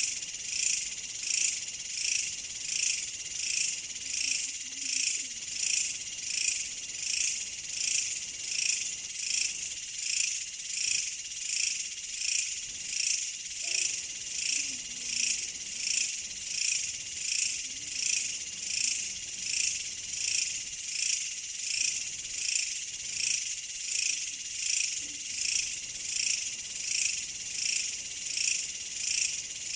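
Dense chorus of night insects trilling high and shrill, pulsing in a steady rhythm of about three pulses every two seconds. Faint low frog calls come in a few times.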